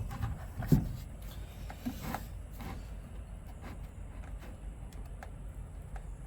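A few light knocks and clatters of wood pieces and tools being handled during woodworking. The sharpest knock comes just under a second in and a softer one about two seconds in, over a steady low rumble.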